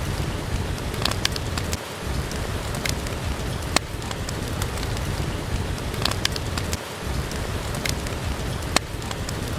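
Steady rain falling as an even hiss, mixed with a wood fire crackling: sharp, scattered pops every second or two.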